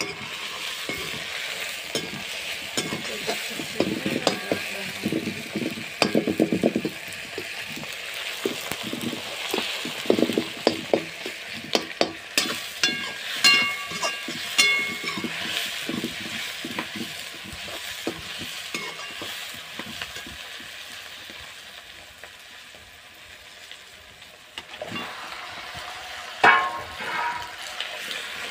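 Onions and tomatoes sizzling in hot oil in a large aluminium kadhai, stirred and scraped with a metal slotted spatula, with repeated scraping strokes and metal clinks. The sizzle dies down, then a louder burst of sizzling near the end as raw chicken pieces go into the pan.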